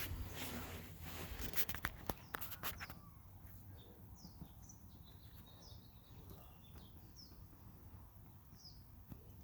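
A bird chirping: short, high, quickly falling notes repeated about once a second. Before it, for the first few seconds, come scattered clicks and rustling.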